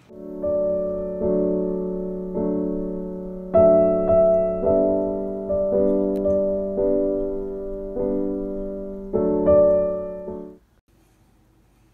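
Background music: a piano (electric piano) playing slow sustained chords, a new chord struck about once a second, cutting off about ten and a half seconds in.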